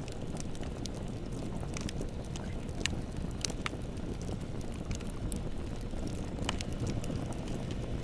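Wood fire burning with a steady low roar of flames and irregular sharp crackles and pops.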